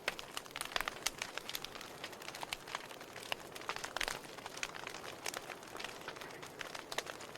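Wood logs burning in a fireplace: irregular crackling and popping over a soft steady hiss, with a louder pop about four seconds in.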